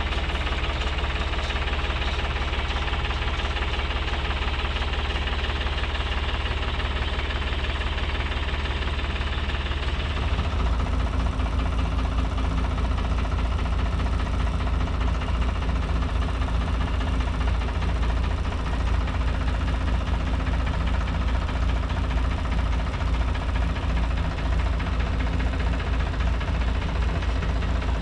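Tractor engine running under load, a steady low drone whose note changes about ten seconds in.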